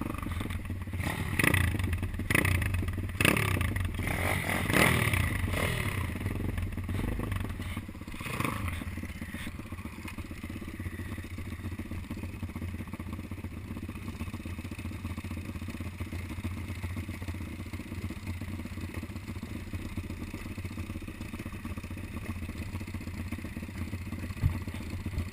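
Pit bike engine revving in several rising and falling bursts, with some knocks and clatter, for the first eight seconds or so, then running steadily and more quietly.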